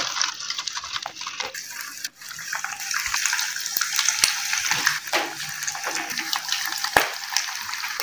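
Potato-and-mince kebabs sizzling in hot oil in a frying pan, a steady hiss with scattered pops and crackles, just after being laid in. The sound drops out briefly about two seconds in.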